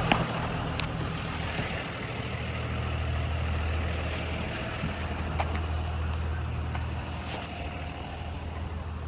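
2020 Blue Bird Vision school bus running steadily, a low engine hum heard from inside the bus, with a few light clicks or rattles.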